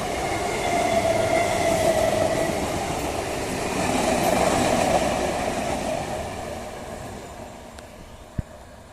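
EMU local train running through the station at speed without stopping: a loud rumble of wheels on rail with a steady whine over it, fading away over the last few seconds as the train moves off.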